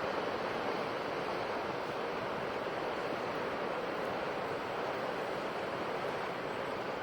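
Sea waves washing on a shore: a steady, even surf.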